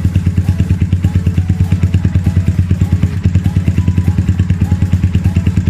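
Yamaha FZ150i's single-cylinder four-stroke engine idling steadily through an aftermarket Akrapovic Titan full-system exhaust, an even low pulsing at about ten beats a second.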